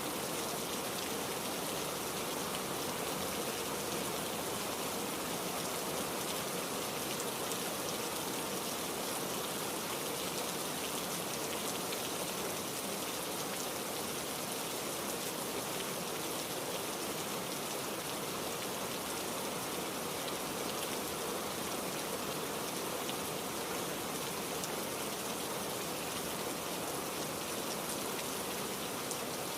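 Steady heavy rain falling, an even hiss with no breaks or thunderclaps.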